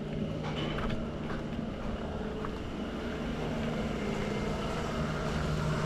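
A steady, low engine hum, holding an even pitch, with a few faint clicks over it.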